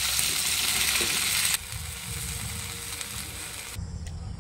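Okra pieces frying in hot oil in a pan, sizzling loudly, then dropping suddenly about a second and a half in to a quieter sizzle. Near the end the sound cuts to a steady high insect chirring.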